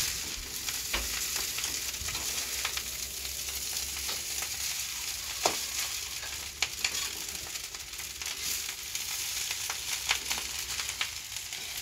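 Nasi goreng (Indonesian fried rice) sizzling in a wok over a gas flame, stirred with a spatula that scrapes and clicks against the pan, with a few sharper knocks about five and a half seconds in.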